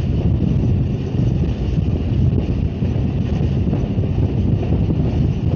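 Passenger train running at speed, heard from inside the coach at a window: a steady low rumble of the wheels on the track mixed with wind blowing across the microphone.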